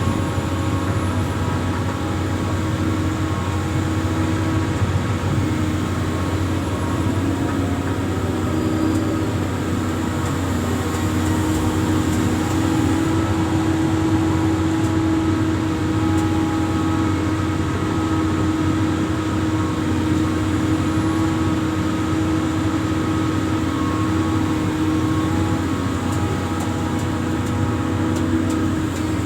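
Amphibious excavator's diesel engine running steadily, with a constant drone and hum that change little.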